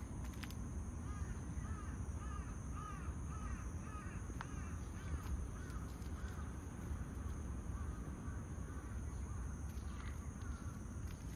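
A bird calling a quick series of short, arching notes, about two a second, that stops after about six seconds, over a steady low outdoor rumble.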